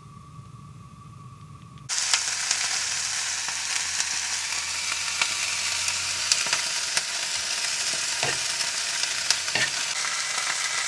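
Food sizzling and crackling as it fries in a pan, starting abruptly about two seconds in after a quiet stretch with a faint hum, with a few sharp clicks among the crackle.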